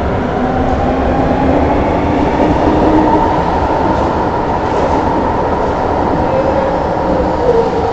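An electric S-Bahn train pulling out of an underground platform. Its traction motors give a whine that rises in pitch over the first few seconds as it picks up speed, then holds, over steady wheel and rail noise.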